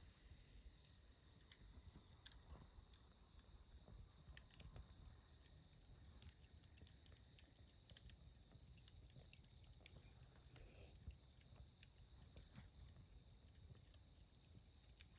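Faint, steady high-pitched insect chorus, with scattered small crackles and pops from a wood campfire.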